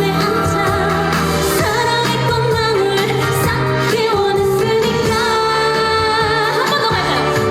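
A trot song: a woman singing the melody over instrumental accompaniment.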